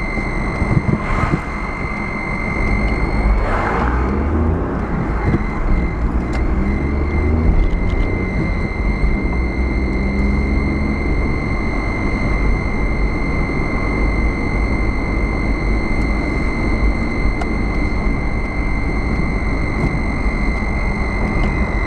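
Car driving: steady engine and road rumble, its pitch rising and falling gently, with a constant high-pitched whine over it.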